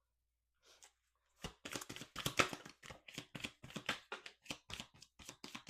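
A deck of reading cards being shuffled by hand: a quick, dense run of card snaps and slaps starting about a second and a half in.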